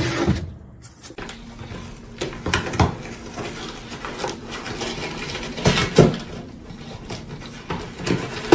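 Irregular knocks and clatter of hard household objects being handled, the loudest about six seconds in, over a faint steady hum.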